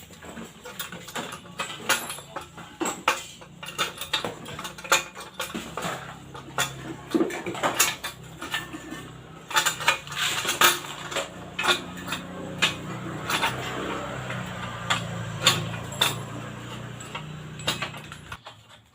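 Metal tools and exhaust parts clinking and knocking again and again during hands-on work on a motorcycle exhaust. A steady low hum underneath stops abruptly near the end.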